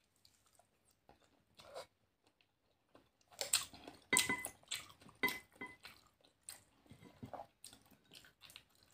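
A person eating a balut close to the microphone: wet chewing and crunching. The chewing is silent for about the first three seconds, then comes as a cluster of sharp clicks and crunches, and then thins to softer chewing.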